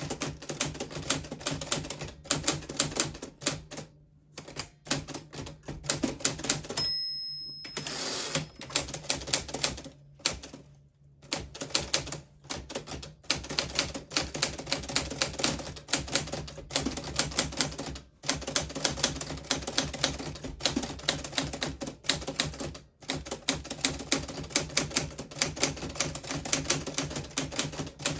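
Steady typing on a 1940s Smith Corona Silent manual typewriter: fast runs of key strikes broken by a few short pauses. A short ringing tone sounds about a quarter of the way through.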